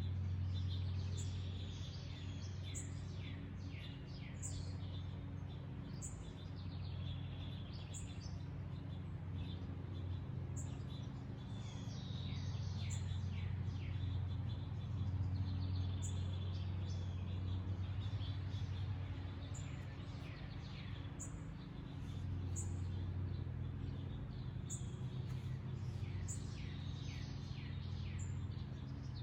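Songbirds chirping on and off: quick high chirps that slide downward, some in short rapid runs. A steady low hum runs underneath.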